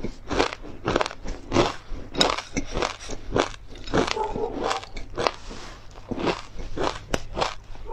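Close-miked crunchy chewing of tartary buckwheat pepper crisp, the crisp fried chili pieces and buckwheat grains crackling in a steady run of crunches, about two to three a second.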